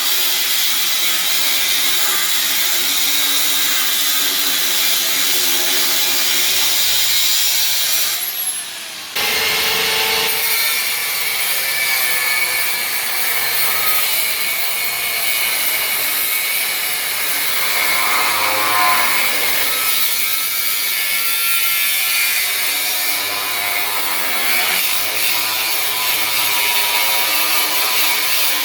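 Power cutting tool running under load, cutting through the truck's rusty steel frame; the cutting eases off briefly about eight or nine seconds in, then carries on.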